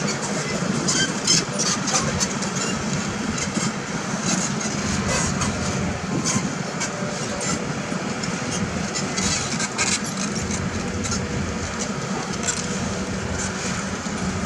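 Heavy diesel construction machinery running steadily, with frequent short metallic clanks and knocks over the engine's hum.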